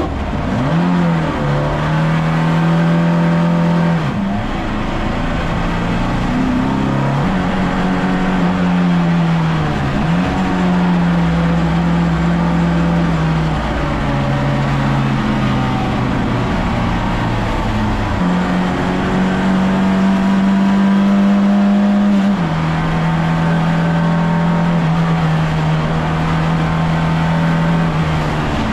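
VAZ 2101 race car's four-cylinder engine running hard at high revs. Its pitch drops and climbs again several times as it shifts gears and lifts off and back on the throttle.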